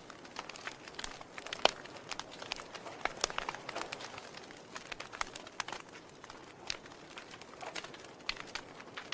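Wood fire burning in a fireplace, crackling with irregular pops and snaps over a soft hiss; the sharpest pop comes about a second and a half in.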